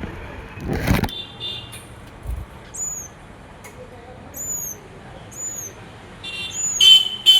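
Small birds chirping: short, very high calls, each rising then falling, repeated about once a second, with a few buzzier calls. A louder burst of noise about a second in and a steady background hum like distant traffic lie underneath.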